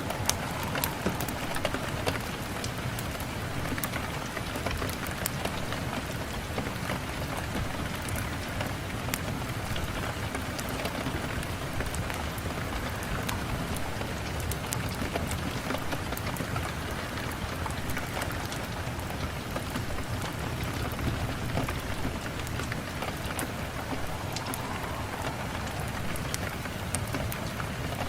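Steady rain on a window pane, an even hiss with scattered small sharp ticks of drops.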